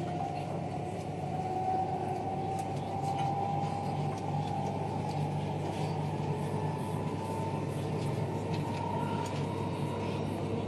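Running noise inside a moving vehicle: a steady low hum under a whine that slowly rises in pitch, with a few faint clicks.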